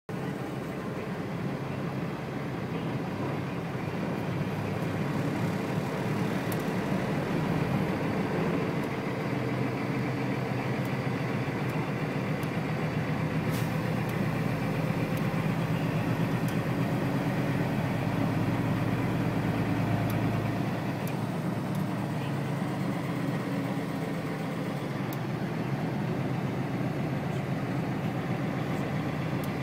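A motor vehicle's engine running steadily with a low drone, with a few faint clicks over it.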